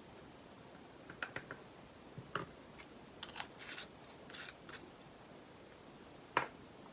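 Small plastic clicks and rustling from diamond painting drill bags and storage pots being handled: a quick run of three clicks about a second in, a few more with light rustling in the middle, and one sharper click near the end.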